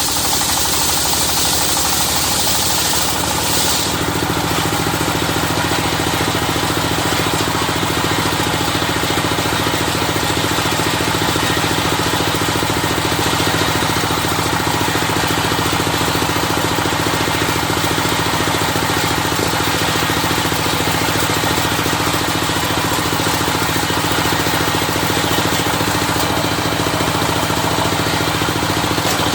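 Engine-driven circular sawmill (serkel) running steadily while ripping a dadap log, with a high hiss that stops and a shift in the engine's tone about four seconds in.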